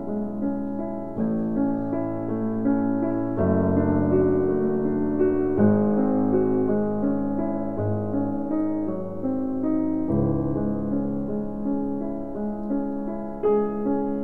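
Background piano music, its notes and chords changing every second or two.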